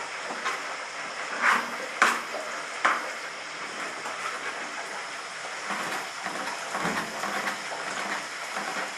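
Hot oil sizzling steadily as chicken deep-fries, with a few sharp knocks of kitchen utensils about one and a half, two and three seconds in.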